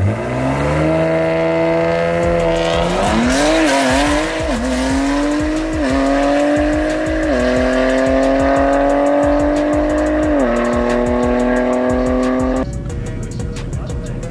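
A high-powered car engine pulling hard at full throttle, its note starting suddenly and climbing with several shifts in the gears. The revs waver up and down for a second or so before the pull settles. The engine cuts off abruptly near the end.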